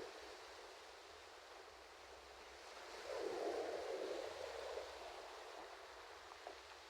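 Ocean waves washing on a shore; one wave swells about three seconds in and fades away.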